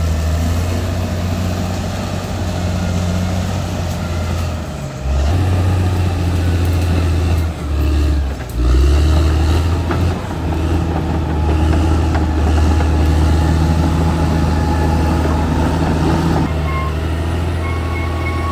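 Caterpillar D6R XL bulldozer's diesel engine running under load, with its note dipping briefly a few times about five to nine seconds in. A thin steady high tone comes in near the end.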